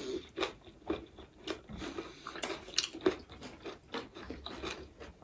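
Close-miked chewing and mouth sounds of someone eating a rice meal: irregular wet smacks and clicks, about two a second.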